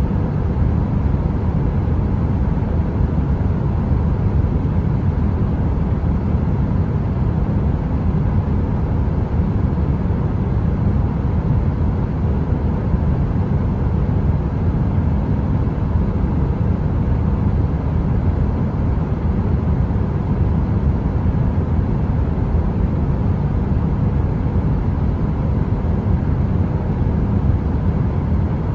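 A heater's fan running: a steady, deep rumbling noise with a faint constant hum above it, unchanging throughout.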